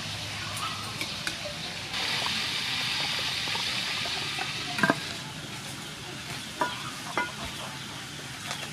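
Food sizzling in hot oil as it fries: a steady hiss that swells for a few seconds, with a few sharp clicks of a utensil against the pan.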